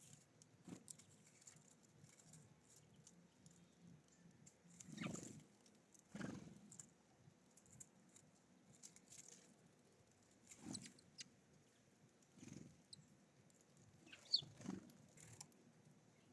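Small birds at a feeder: faint, scattered soft taps and rustles of landing and pecking, about eight in all, with a short high chirp about two seconds before the end.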